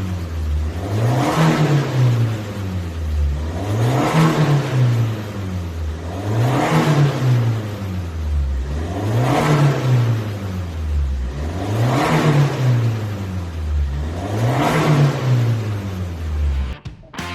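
Hyundai All-New Tucson's engine revved through a custom full exhaust with mid and end mufflers: six rev blips, each rising and falling in pitch, about every two and a half seconds. The sound cuts off just before the end.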